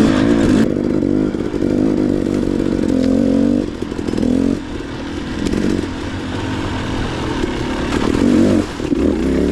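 KTM dirt bike engine revving and easing off as it rides, its pitch rising and falling; it drops back about four seconds in and revs up again near the end.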